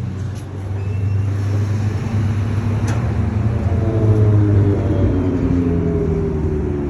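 Low rumble of a motor vehicle, growing louder over the first second or so, with a few faint tones gliding slowly downward in the second half.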